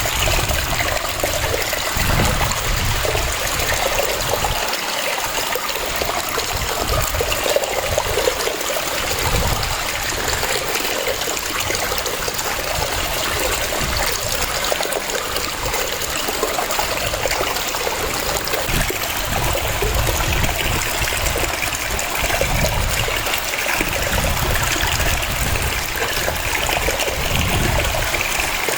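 Waterfall: water cascading and splashing in a steady rush, with a shifting low rumble underneath.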